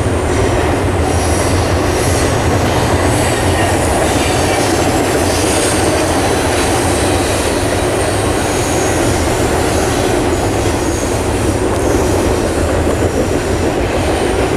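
Train passing close by on the railroad tracks: a steady loud rumble of wheels on rail, with thin high squeals from the steel wheels coming and going.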